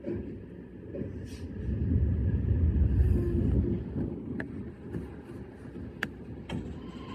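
E131 series electric train running, a low rumble that swells and then eases off, with a few sharp clicks in the second half.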